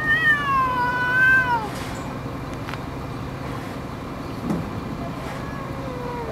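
Domestic cats meowing back and forth: one long drawn-out yowling meow of about a second and a half that sags in pitch, then a fainter, lower, wavering call near the end. A steady low hum runs underneath.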